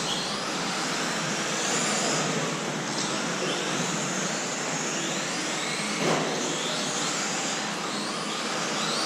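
Several electric RC race trucks with brushless motors running laps, their motor and gear whine rising and falling as they accelerate and brake, with several whines overlapping.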